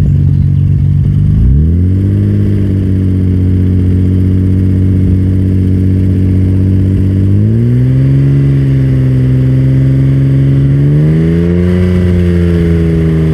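Exhaust of a Nissan Skyline GT-R's twin-turbo straight-six, fitted with a Midori Seibi titanium muffler, held at steady revs in a stationary rev test. The engine speed is stepped up three times, each a smooth rise to a higher held pitch: roughly 2000, 3000 and then 4000 RPM.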